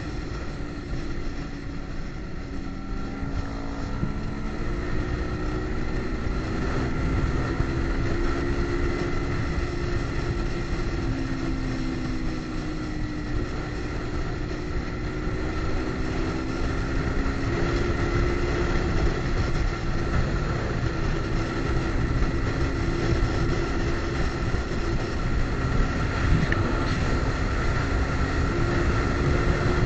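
Kawasaki Ninja sport bike's engine running at a steady cruise, its pitch drifting gently up and down, over a constant rush of wind noise.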